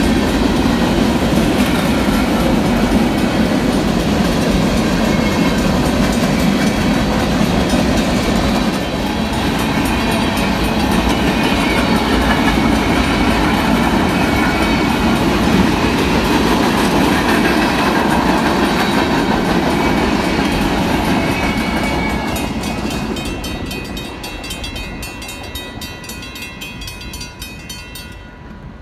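Freight cars rolling through a grade crossing, wheels clattering over the rail joints, fading away near the end as the last cars pass. A crossing signal bell rings steadily over it and becomes clearer as the train noise dies, stopping just before the end.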